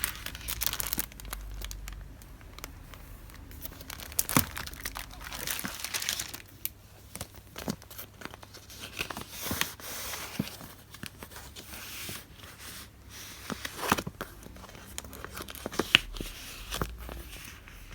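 Paper goods and their wrapping being handled: irregular crinkling and rustling with sharp taps and clicks.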